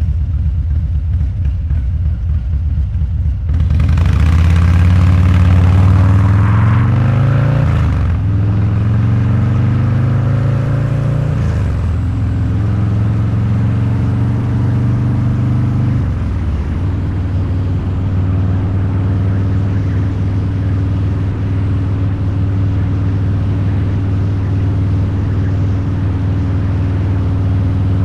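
Harley-Davidson Low Rider's 129ci V-twin running through a Two Brothers Racing exhaust while riding. It runs low and even at first. About three and a half seconds in the throttle opens and revs climb through two upshifts, then the bike settles into a steady cruise, with another shift about halfway through.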